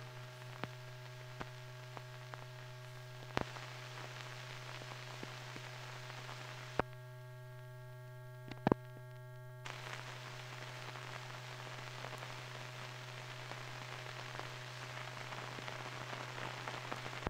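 Old film soundtrack noise with no programme on it: a steady hum and hiss, crackling with scattered clicks and pops, one sharper pop a little under nine seconds in.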